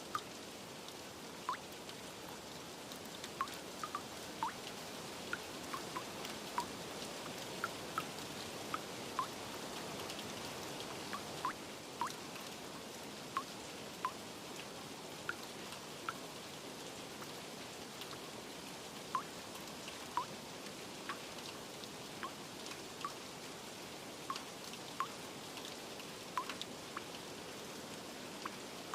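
Steady rain with water drops plinking irregularly, about one a second, each a short sharp drip.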